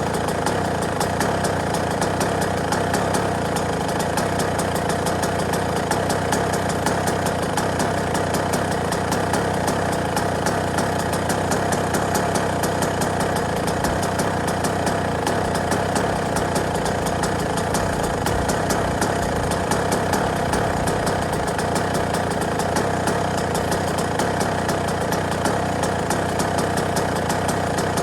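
Yamaha YZ125 two-stroke motocross engine idling steadily, a rapid even crackle of firing pulses with no revving.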